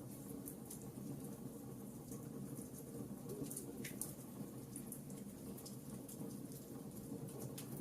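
Log fire crackling: frequent small sharp pops and snaps over a steady low rumble of the flames, with one louder pop about halfway through.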